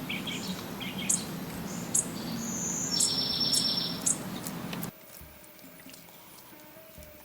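Birds chirping over a steady rushing noise, with a high buzzy trill about three seconds in; the whole sound cuts off suddenly about five seconds in.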